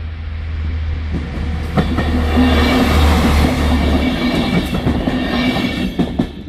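Track-cleaning train passing close by over the level crossing: a loud rush of wagon wheels on rail with a steady engine tone, and sharp wheel knocks over the rail joints as it arrives and again near the end, before the noise drops away. A steady low rumble runs underneath throughout.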